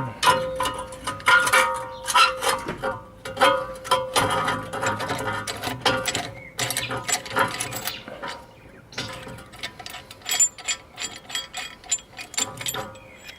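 Irregular metal clinks, knocks and scrapes of hand tools working on car brake parts, coming in quick clusters.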